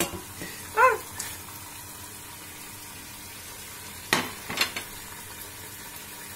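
Olive oil and diced vegetables sizzling gently in a pot over lowered heat. About a second in there is a brief high-pitched squeak, the loudest thing here, and two light knocks come about four seconds in.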